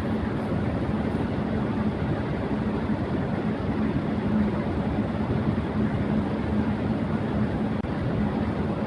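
Electric fan running at high speed: a steady rushing whoosh of air with a constant low hum.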